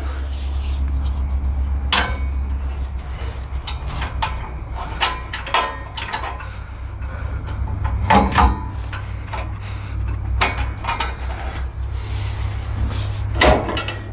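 Scattered clinks and knocks of hand tools and metal brush-guard parts being handled during fitting, a dozen or so separate hits, the loudest about eight seconds in and near the end. A steady low hum runs underneath.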